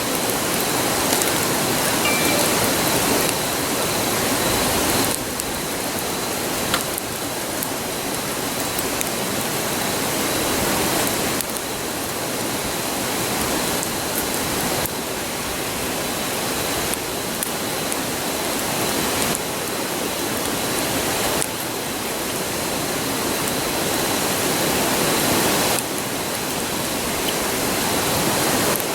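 A river rushing steadily, a constant even roar, with a few faint crackles from a wood campfire, one a little louder about seven seconds in.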